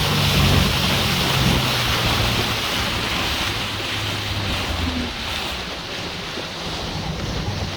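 Small tour boat's motor running under a rush of water and wind noise on the microphone. The motor hum and the overall sound fade steadily across the few seconds.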